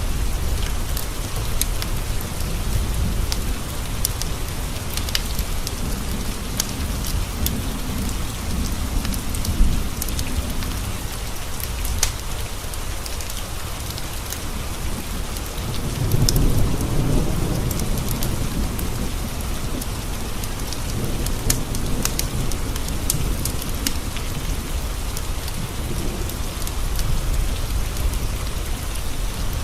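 Steady rain pattering against window panes, with a low rolling thunder rumble that swells about halfway through. A scatter of small sharp ticks runs over the rain.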